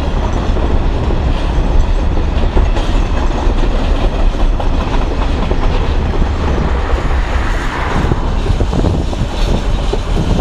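Loaded container wagons of a freight train rolling past, a steady heavy rumble with the continuous clatter of wheels over the rail joints. A brief falling squeal comes about three-quarters of the way through.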